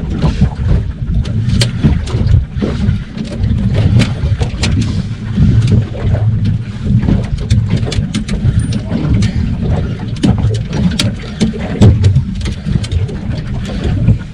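Wind buffeting the microphone on a small fishing boat, a loud uneven low rumble, with water slapping the hull and scattered sharp clicks and knocks throughout.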